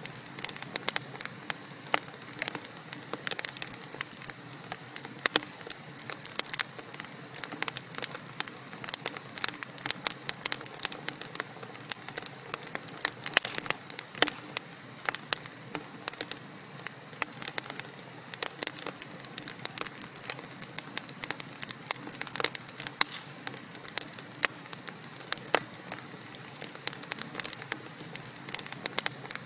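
Wood fire burning in a fireplace: a steady hiss under dense, irregular crackles and pops from the burning logs.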